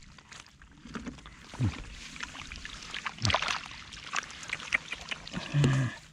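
Water splashing and sloshing, with many irregular sharp splashes and ticks as hands work through shallow water catching fish.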